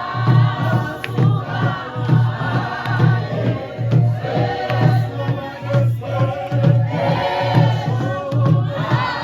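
A group of voices singing together over a steady drum beat of about two strikes a second.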